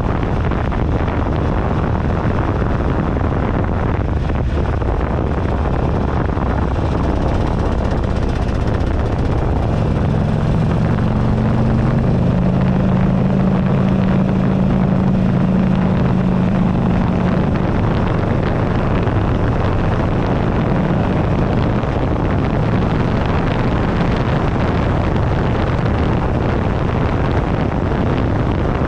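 Wind buffeting a handlebar-mounted camera microphone at riding speed, over the 2008 Buell Ulysses XB12XT's air-cooled V-twin engine. The engine's steady note stands out above the wind from about ten to eighteen seconds in.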